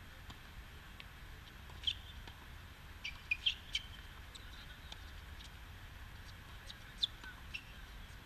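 Birds chirping in short sharp calls: one about two seconds in, a quick cluster a second later, and another near the end. Under them are faint knocks from a tennis rally and a steady low outdoor rumble.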